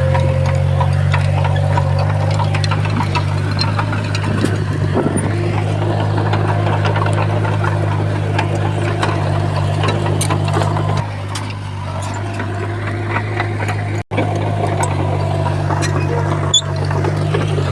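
Diesel engine of heavy earthmoving machinery running steadily under load, with scattered clicks and knocks over it. The engine eases off for a moment about eleven seconds in, and the sound cuts out for an instant near fourteen seconds.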